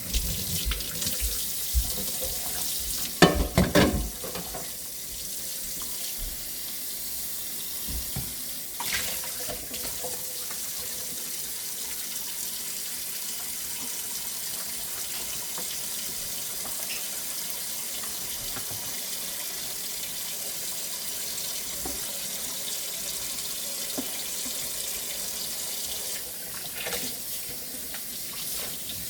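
Kitchen tap running steadily into a sink, with a few loud knocks about three to four seconds in and another near nine seconds.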